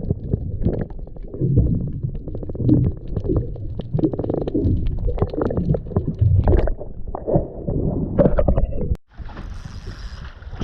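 Muffled underwater sound from a GoPro held in the sea: low sloshing and gurgling of water against the camera housing, with many small clicks and knocks. About nine seconds in it cuts to open air with wind on the microphone.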